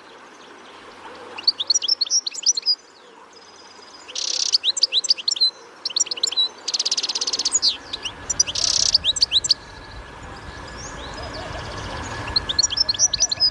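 A songbird singing in bouts of quick, high chirps and rapid trills, separated by short pauses. From about halfway a low rumble comes in and grows louder toward the end.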